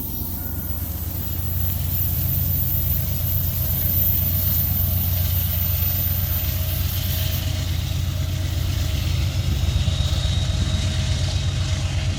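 Diesel-electric freight locomotive working hard upgrade under heavy load: a steady, low, pulsing engine rumble.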